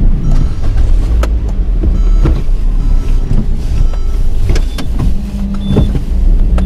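Car engine idling while the car stands still, heard from inside the cabin as a steady low rumble, with a few scattered clicks and knocks.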